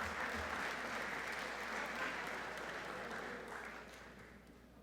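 Audience applauding in a gymnasium, the clapping tapering off and dying away near the end.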